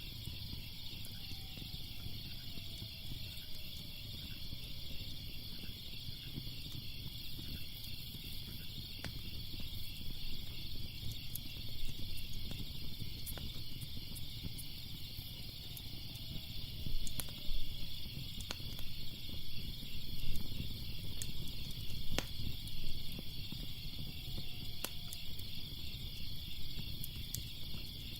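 Wood fire crackling, with sharp pops and snaps that come more often and louder in the second half, over a steady chorus of chirping night insects.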